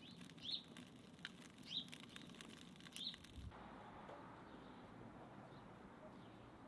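Faint outdoor ambience: a bird gives three short chirps about a second apart, with scattered faint crackling clicks. About halfway through, these give way to a faint steady hiss.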